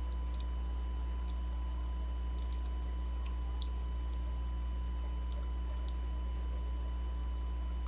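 Steady low electrical hum from a webcam microphone, with a few faint steady tones above it and scattered faint ticks.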